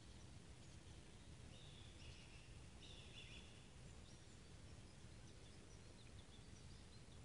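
Near silence: faint open-air ambience with a few soft bird chirps about two and three seconds in.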